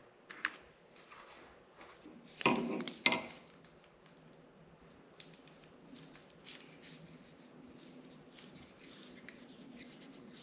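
Small tools and wiring parts handled on a workbench: two clattering knocks about two and a half and three seconds in, then light clicks over a faint steady hum.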